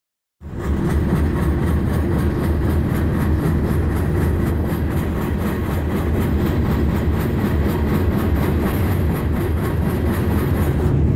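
Freight train rolling at speed, heard from aboard one of its cars: a steady, loud low rumble with the dense clatter of wheels and cars on the rails.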